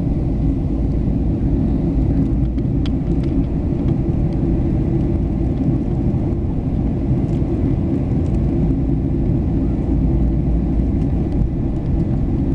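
Steady low rumble of airflow and jet engines inside the passenger cabin of a Boeing 737-800 in flight, with a few faint ticks.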